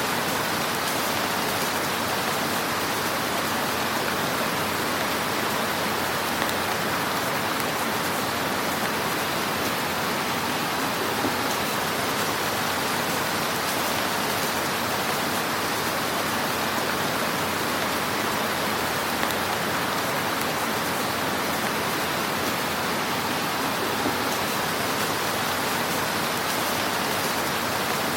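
Fire in a fireplace giving off a steady, even hiss with an occasional faint pop.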